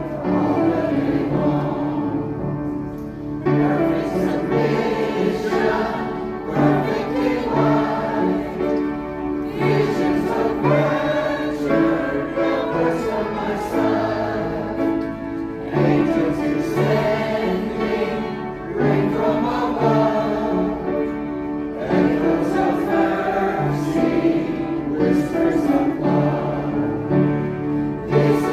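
A choir singing a song, with many voices together in a continuous phrase.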